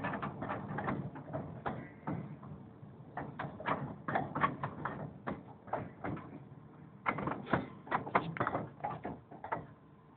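Quick, irregular runs of metallic clicks and clanks, typical of a miniature steam railway train's wheels and couplings.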